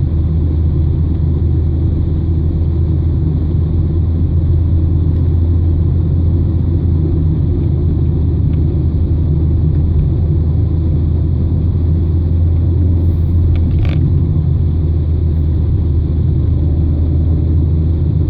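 Steady low rumble of a car's engine and tyres on the road, heard from inside the cabin. A short click sounds about fourteen seconds in.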